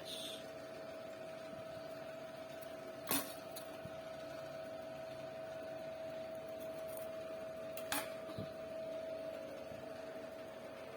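A steady machine hum with one constant whining tone, broken by two sharp clicks about three seconds in and again near eight seconds.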